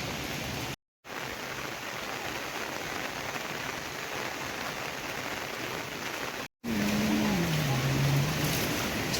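Heavy rain falling steadily, breaking off for an instant twice. About two-thirds of the way through, a low drawn-out call falls in pitch over the rain.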